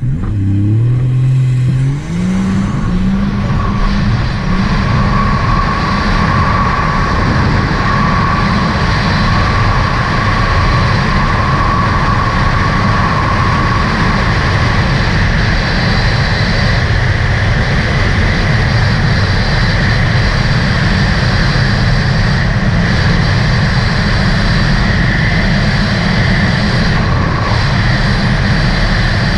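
A 2018 Sea-Doo RXT-X 300's supercharged three-cylinder engine, fitted with a Riva free-flow exhaust, revs up over the first couple of seconds as the personal watercraft takes off, then runs steadily at speed.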